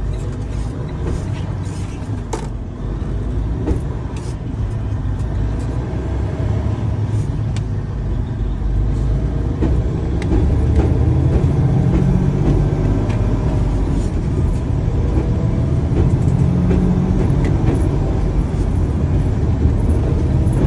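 Freightliner Cascadia on the road with its forward drive-axle differential, damaged by running low on oil, making a deep, ugly noise under the truck's running sound. It grows louder about halfway through.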